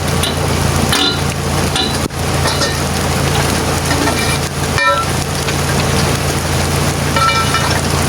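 Diesel truck engine running steadily at idle under an even hiss of drizzling rain, with brief faint voices.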